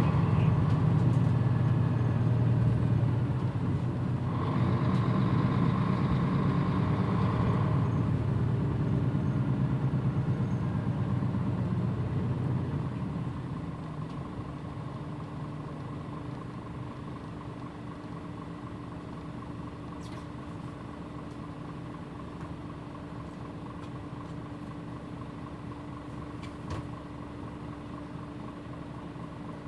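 Onboard sound of a Mitsubishi Fuso PJ-MP35JM city bus: its diesel engine runs under way, then about 13 seconds in the sound drops to a quieter, steady idle.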